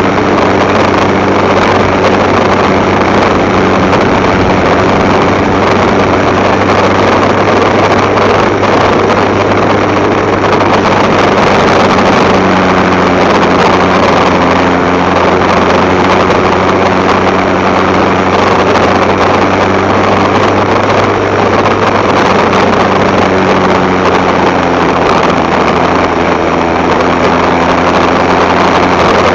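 Motorcycle engine running during a ride, its pitch shifting slightly a few times as the speed changes, over a steady rushing noise.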